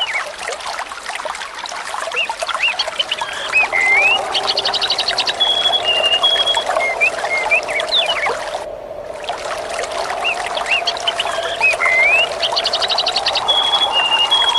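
Birds chirping and whistling over a steady trickle of running water. The same stretch of birdsong comes round again about every eight and a half seconds, as in a looped ambience recording.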